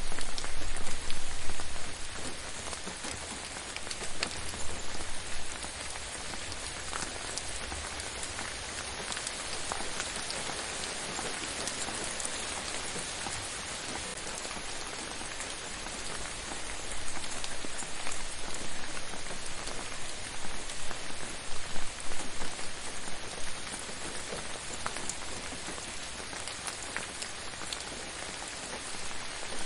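Steady rain falling on a surface, an even hiss with scattered individual drop taps. It is louder in the first couple of seconds, then settles, swelling a little past the middle.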